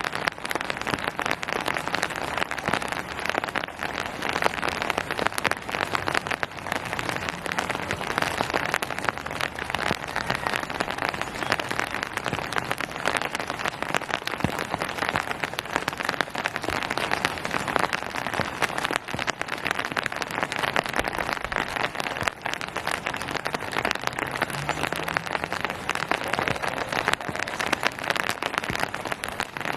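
Steady rain falling and pattering on surfaces: a dense, even wash of many small drop impacts.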